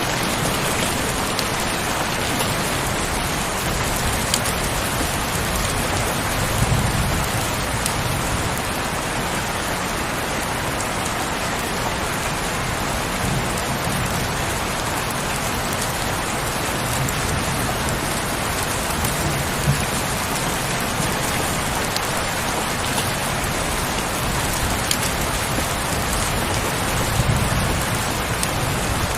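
Heavy rain falling steadily: an even hiss with scattered sharp drop ticks and a few soft low swells.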